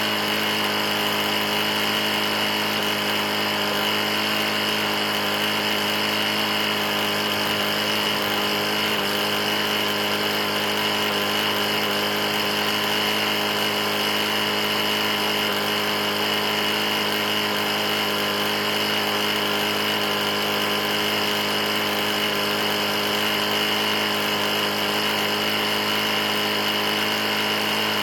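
Single-cylinder Briggs & Stratton lawn mower engine running steadily with no change in speed. The engine has a pretty bad knock, after being run almost out of oil.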